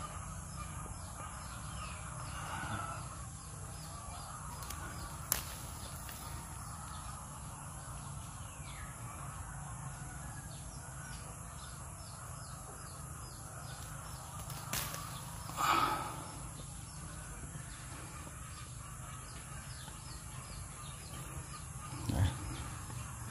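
Outdoor rural ambience with a steady high-pitched background drone. A bird calls loudly once about sixteen seconds in, with a fainter call near the start. Two sharp clicks stand out, one about five seconds in and one just before the loud call.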